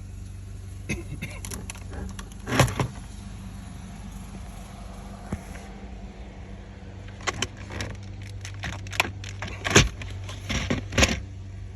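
Gear shifter of a 2014 Hyundai Santa Fe being moved between positions, its shift linkage reconnected with a new bushing: sharp clicks and clunks, a few spread through and a quick cluster near the end, over a steady low hum.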